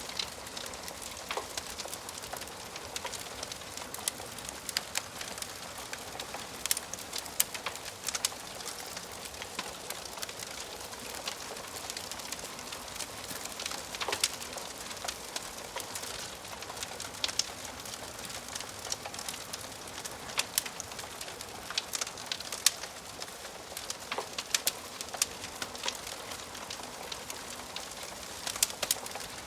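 Wood fire crackling in a fireplace: a steady soft hiss with many irregular sharp pops and snaps.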